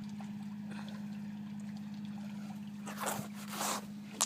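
A steady low hum, with two short rushing noises about three seconds in and a sharp click near the end.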